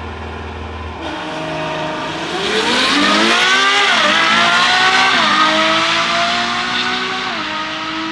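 Ferrari engine accelerating hard down a drag strip from a launch. Its pitch climbs and drops sharply at each upshift: three shifts, about four, five and seven and a half seconds in.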